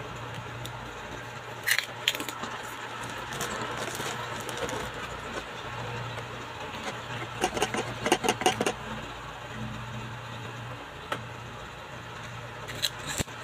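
Crunchy chicharon sopas (fried macaroni-shaped chicharon) bitten and chewed close to the microphone: short bursts of crisp crackling crunches about two seconds in, a longer run around the middle, and a brief one near the end.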